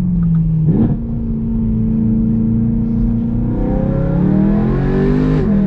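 BMW E92 M3's V8 and loud aftermarket exhaust under way, with a quick gear change about a second in and another a little past halfway, then the revs climbing.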